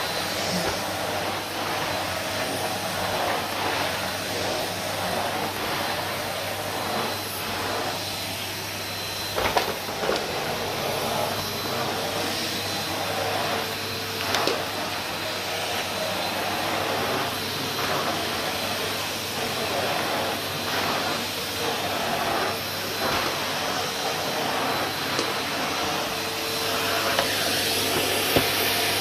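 Numatic Henry HVR160 cylinder vacuum cleaner running steadily, a continuous motor hum and rush of suction, its sound swelling and fading about once a second as it is worked. A few sharp knocks come about a third of the way in, again near the middle and once near the end.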